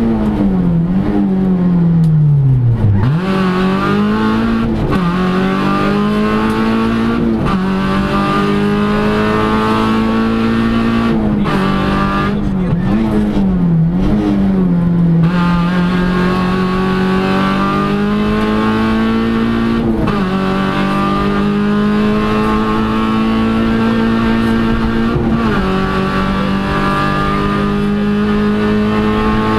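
VW Polo rally car's engine at high revs, heard from inside the cockpit at stage speed. The pitch holds steady for long stretches and drops sharply several times before climbing again between gear changes, with the deepest drop about three seconds in.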